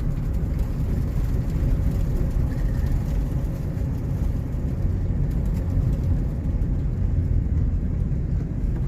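Steady low rumble of a truck being driven: engine and road noise, even throughout.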